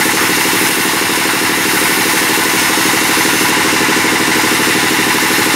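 Engine-driven sawmill bandsaw running steadily: an even, rapid low pulse under a broad hiss, with no break or change.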